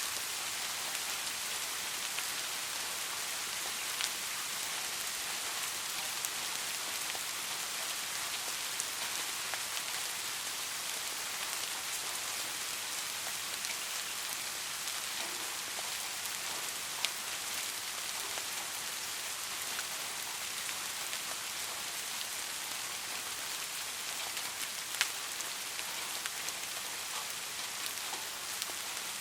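Steady rain falling on a street: a dense, even hiss of drops, with a few single louder drips standing out now and then.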